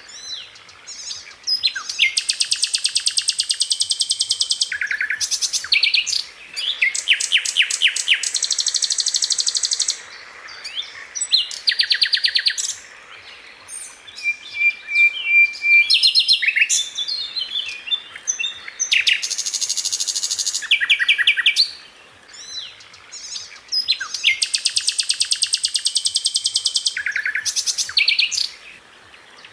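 Grey-headed canary-flycatcher (sikatan londo) singing: loud phrases of very rapid, high-pitched trilled notes, each lasting two to three seconds, separated by short pauses filled with softer chatter and brief whistles.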